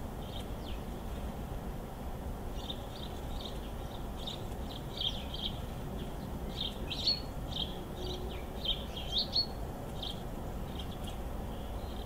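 Small songbirds chirping: an irregular run of short high chirps, a few with a quick upward sweep, over a steady low background rumble.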